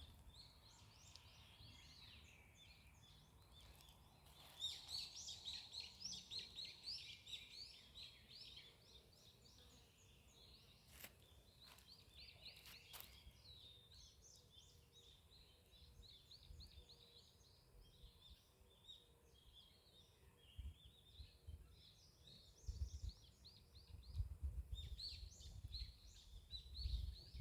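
Small songbirds chirping and twittering in quick, repeated high notes, busiest about five seconds in and again near the end, with a low rumble joining in the last few seconds.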